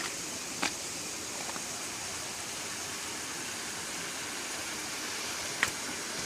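Steady hiss of rain and hail falling during a hail storm, with two sharp ticks, one about half a second in and one near the end.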